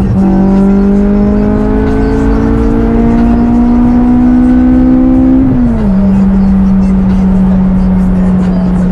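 The 2008 Acura TSX's K24 four-cylinder engine, heard from inside the cabin. Its revs climb slowly under steady acceleration for about five seconds, then ease down and hold at a steady cruise.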